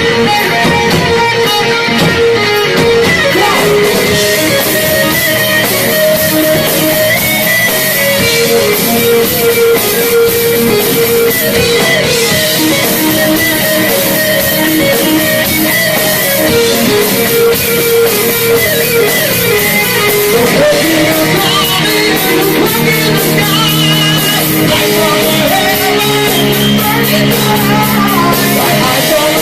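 Metal band playing live and loud: electric guitar over a drum kit.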